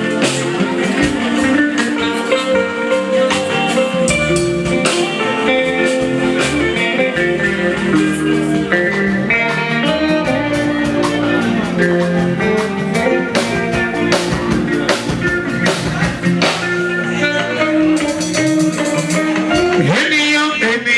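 Live fuji band music: a steady run of percussion strikes under a melodic instrument line, with no pause.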